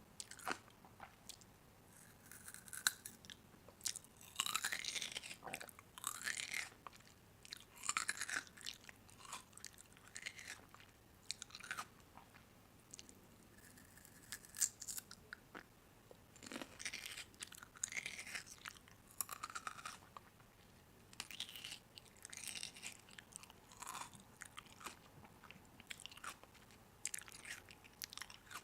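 A person chewing and biting crunchy food close to the microphone, in irregular crisp crunches.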